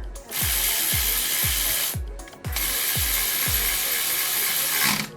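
A workshop power tool running in two long bursts of hissing mechanical noise, the second longer than the first, over background music with a steady beat.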